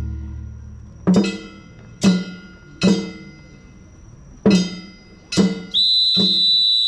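Festival hayashi percussion for a Nagasaki Kunchi float: five single struck beats, unevenly spaced, each ringing and dying away. Near the end a high piping note is held steadily.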